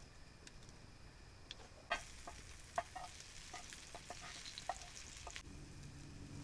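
Food frying in a pan over a campfire: a sizzling hiss with scattered sharp pops starts about two seconds in and eases off shortly before a low steady hum comes in near the end.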